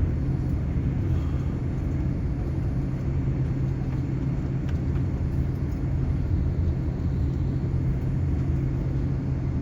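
Steady low rumble and hum inside the cabin of a Boeing 787 airliner taxiing after landing.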